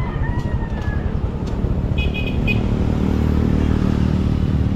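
Motorcycle engine running steadily while riding, getting a little louder after about two and a half seconds. About two seconds in, a horn gives three quick short toots.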